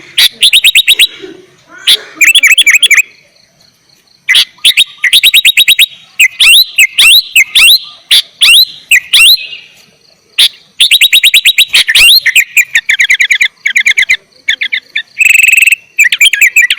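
Sooty-headed bulbul (kutilang) singing at full pitch: bursts of fast, rapidly repeated clipped notes with short pauses between phrases. A harsher, buzzy call comes about fifteen seconds in.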